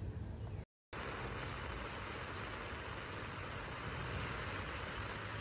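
Steady hiss of rain falling, over a low rumble; the sound drops out for a moment near the start.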